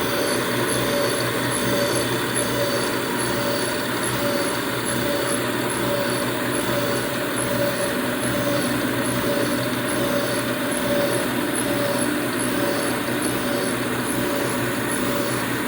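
1980 Shizuoka AN-S CNC milling machine running steadily while milling a slot in 1018 carbon steel: a continuous machine whir with a steady mid-pitched tone and a faint high tone that pulses at an even rate.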